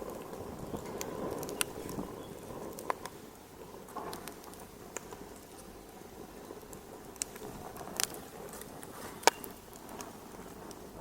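Wood fire crackling in a fireplace: a steady low rush of flame, broken by sharp, irregular pops and snaps, a dozen or so over the stretch.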